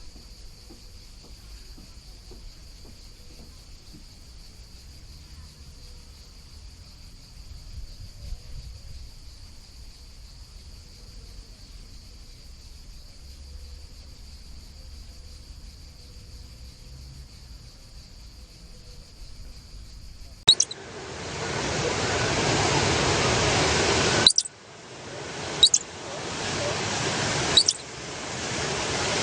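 Faint, steady high-pitched insect chorus over a low rumble. About twenty seconds in, it gives way to a much louder rushing noise that stops and restarts several times, each restart marked by a click.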